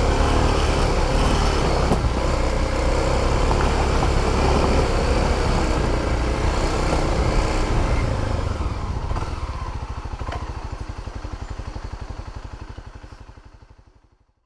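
Small motorbike engine running steadily. From about eight seconds in it drops to an idling beat that fades away near the end.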